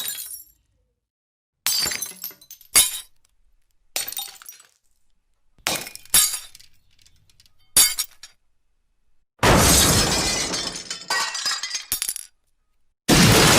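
A series of separate glass smashes, each a sudden crash followed by a brief tinkle of falling shards, with silence between them. Near the end come two longer, heavier shattering crashes, each running on for over a second as the glass breaks up and falls.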